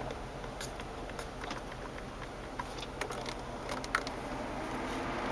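Scattered clicks of climate-control buttons being pressed, over the steady low hum of the idling Northstar V8. Near the end, a rush of air grows steadily louder.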